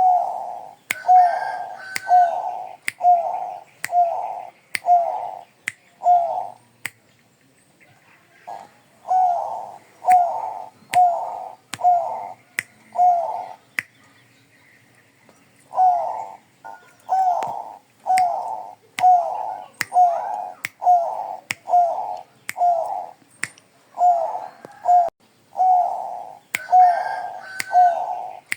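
Zebra dove (Thai-bred 'Bangkok' perkutut) cooing: runs of short coos about one a second, broken by two brief pauses. Sharp clicks sound among the coos, with faint high chirps behind.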